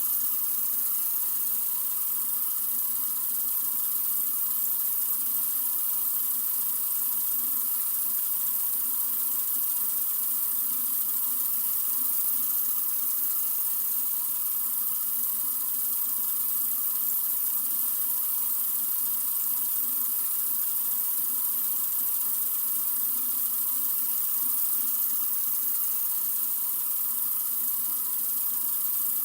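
Sink faucet running in a steady stream: an even, hissy rush of water that does not change.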